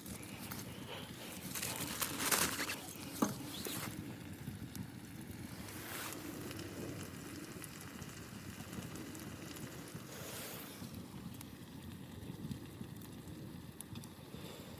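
Wind blowing steadily, with a few brief rustles and a sharp click about three seconds in.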